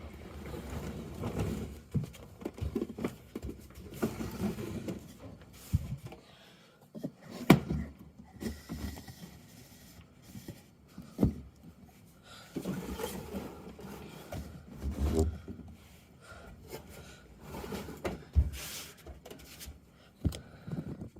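Handling of a plastic Bruder toy garbage truck: irregular plastic clicks, knocks and scraping or rubbing of its parts, with sharper knocks about 7 and 11 seconds in.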